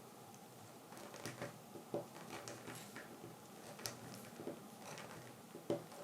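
Faint scratching and a few scattered light ticks of a knife tip scoring lines into wild cherry wood.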